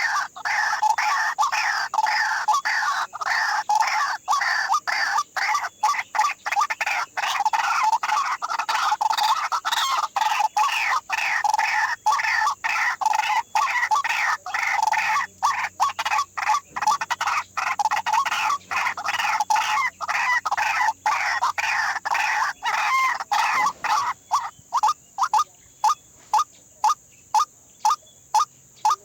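White-breasted waterhen (ruak-ruak) calling: a long, rhythmic series of repeated notes, dense and overlapping for most of the time. Near the end it thins to clear single notes at about one and a half a second.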